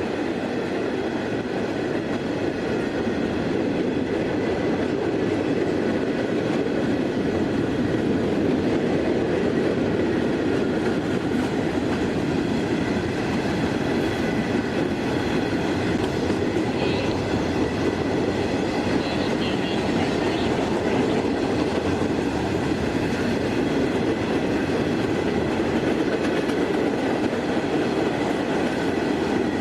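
A train rolling steadily past, its railroad cars rumbling and clattering over the rails.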